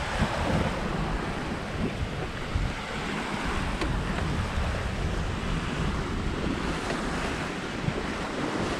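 Steady rush of sea water along a sailing yacht's hull as she sails at about six knots, with wind buffeting the microphone as a low, uneven rumble.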